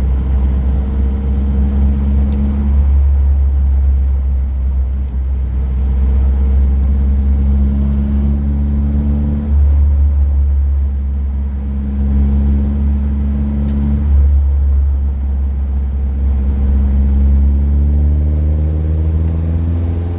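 Car engine and road rumble heard from inside the cabin, the engine note climbing under acceleration and dropping back at each of several gear changes.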